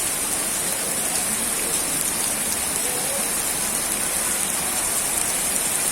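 Steady rain falling, an even hiss of drops hitting the ground and surfaces.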